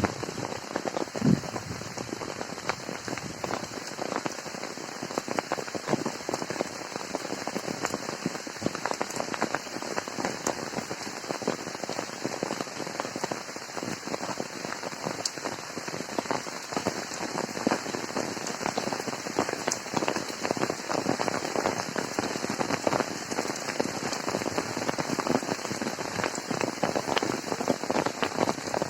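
Steady monsoon rain falling, a dense, even patter of drops.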